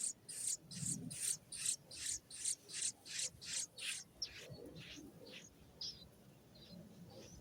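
Baby bird's raspy begging calls, repeated quickly about two or three times a second, then fainter and more spaced out after about four seconds.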